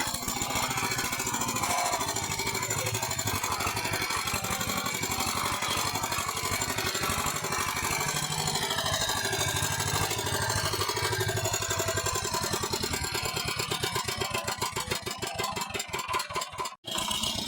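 Walking tractor engine running, a rapid steady firing beat. Near the end the beat slows and turns uneven, then the sound cuts out for an instant before picking up again.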